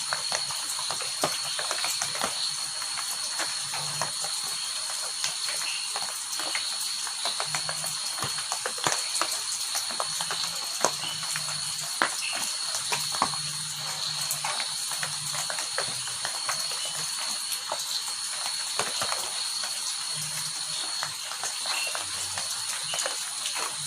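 Heavy rain falling, with drops hitting close by in many sharp ticks over a steady hiss. A steady high-pitched whine runs throughout, and short low sounds come every second or two.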